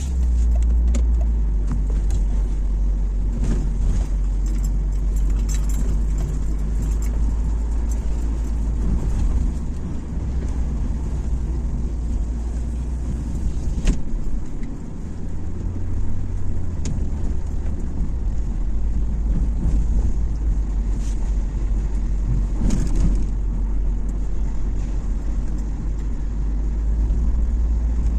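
Steady low road rumble of a car being driven, with scattered light clicks and jingling like keys swinging.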